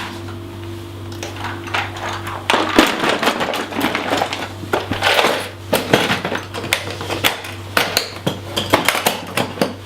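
Hard objects knocking and clattering as they are handled, in irregular clusters that start about two and a half seconds in, over a steady low hum.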